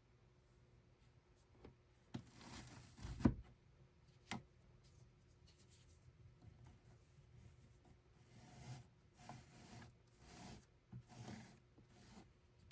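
Quiet handwork at a weaving loom: soft rubbing and rustling strokes, a sharp knock about three seconds in, a click a second later, and a run of several soft strokes near the end.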